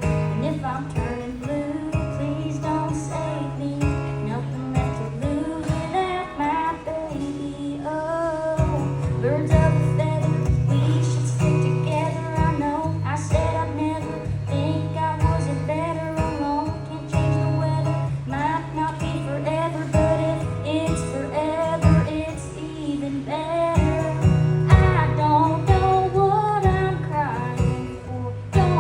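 Live country-style song: a woman singing over strummed acoustic guitar, with steady low bass notes underneath.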